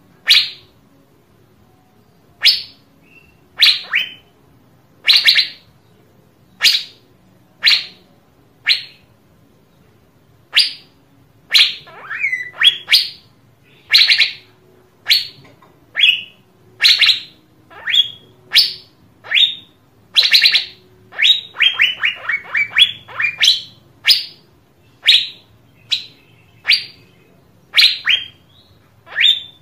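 Asian fairy-bluebird calling: short, sharp whistled notes about once a second, some in quick pairs, with a fast run of about eight notes around two-thirds of the way through.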